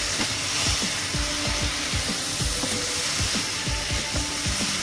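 Chicken frying in a thick masala in a nonstick pan, with a steady sizzle. A wooden spatula stirring it gives irregular low knocks and scrapes against the pan, two or three a second.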